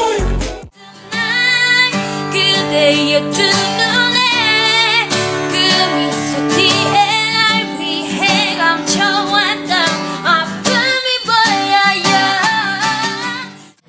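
A woman singing a slow pop melody with vibrato over guitar-led chords. It follows a brief break from a track with a heavy bass beat just under a second in, and cuts off near the end.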